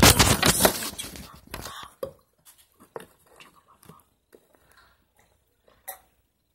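Loud rustling and crinkling of paper being handled close to the microphone for about two seconds, then a few faint taps and clicks, with one sharper click near the end.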